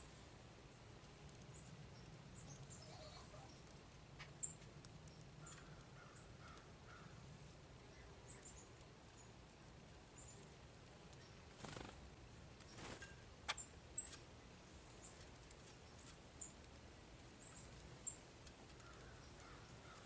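Scattered short, high chirps of small birds at a feeder over faint outdoor background, with a few sharp clicks or taps, the loudest a pair about two-thirds of the way through.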